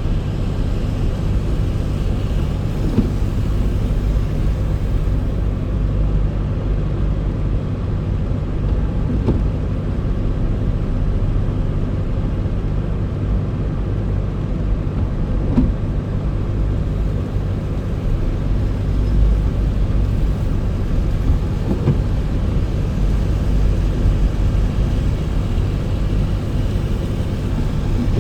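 A car driving, with a steady low rumble of engine and road noise and a faint tick about every six seconds.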